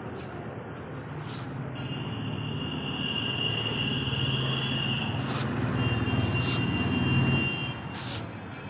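A low mechanical rumble that builds over several seconds and fades near the end, with a steady high-pitched squeal in two stretches and a few sharp clicks.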